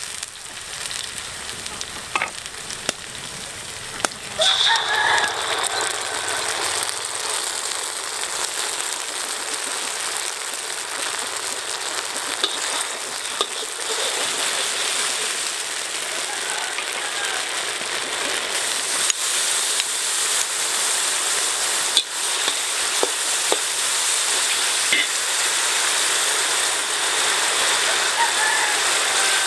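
Sliced shallots and garlic sizzling in hot oil in a wok, with a metal spatula scraping and tapping the pan as they are stirred. The sizzle gets louder about four seconds in and stays strong.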